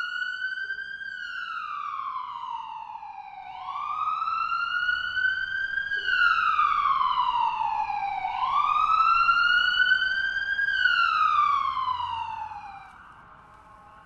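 Siren wailing in three slow rise-and-fall sweeps, each about four seconds long, the last one loudest; it fades away near the end.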